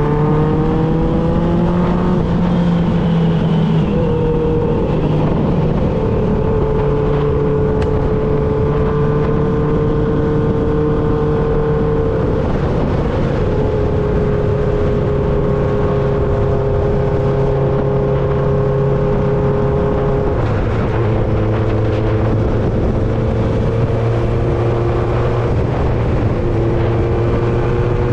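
1995 Honda CB750 Nighthawk's air-cooled inline-four running through a Vance and Hines 4-into-1 exhaust while riding. The engine note rises at the start, then holds steady at cruising revs, changing pitch a few times as the revs drop and pick up again.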